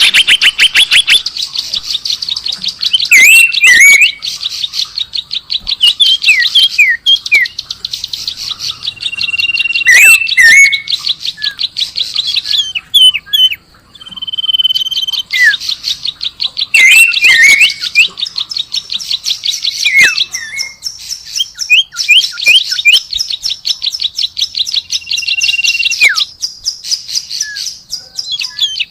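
Songbird calls played as a bird lure: a dense, very rapid high chattering with slurred down-sweeping whistles and a few held whistled notes mixed in, breaking off briefly about halfway through.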